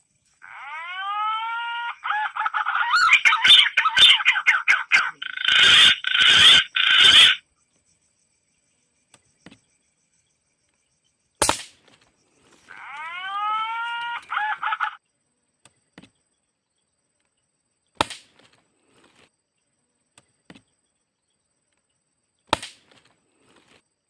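Bird calls: a run of loud, rising whistled notes with rich overtones for several seconds, getting busier and denser, then a shorter repeat of the same rising call later on. A few single sharp clicks fall between the calls.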